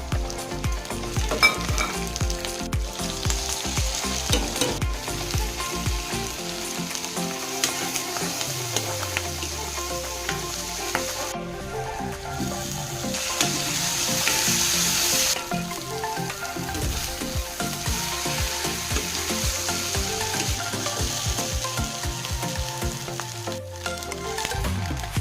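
Chicken fried rice sizzling in a hot pan while being stirred, a steady frying hiss with scraping clicks.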